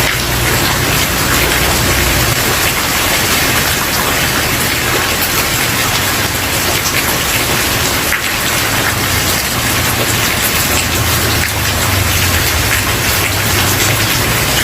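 Steady heavy rain, a dense even hiss of falling rain with individual drops pattering on a hard surface, over a low rumble that fades in and out.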